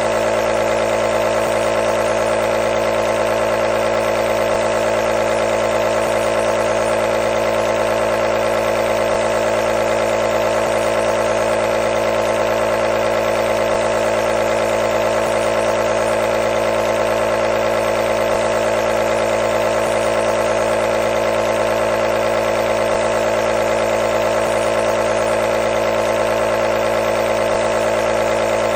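Nebulizer compressor running continuously: a steady mechanical hum with hiss and no change in pitch or level.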